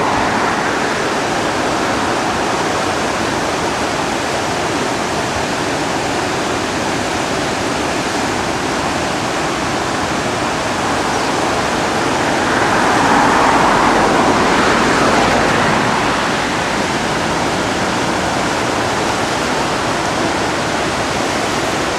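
The Driva river in heavy flood rushing and churning in a steady, loud roar of water. It swells a little about halfway through, then settles back.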